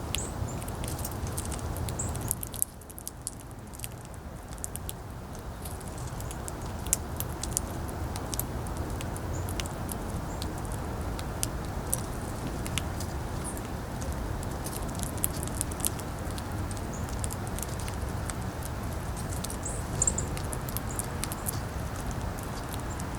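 Wind rumbling on the microphone, with many small sharp clicks and taps scattered throughout: birds and squirrels pecking at and cracking seeds.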